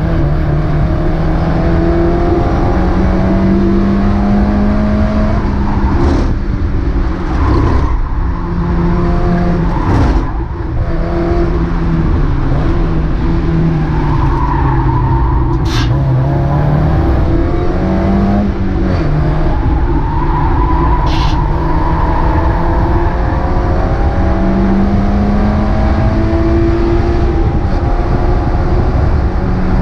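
Mazda MX-5 race car's four-cylinder engine under racing load. The revs climb steadily through the gears and drop back several times as the car brakes and changes down, with tyre and wind noise underneath.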